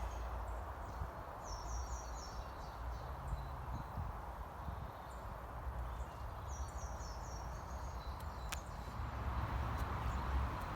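A small songbird singing a short, quick phrase of four or five high notes, twice, over steady woodland background hiss and low wind rumble on the microphone.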